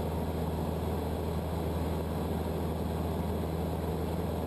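Cessna 152's four-cylinder Lycoming O-235 engine and propeller droning steadily in level cruise flight.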